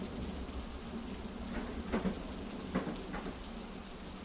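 Steady heavy-rain hiss over a low train rumble, with a few faint, soft clacks of wheels over rail joints, coming roughly in pairs.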